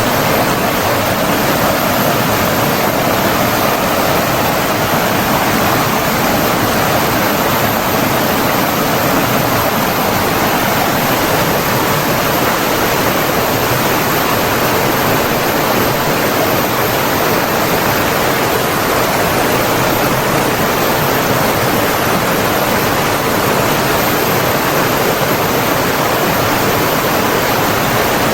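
Flowing water rushing steadily and without a break.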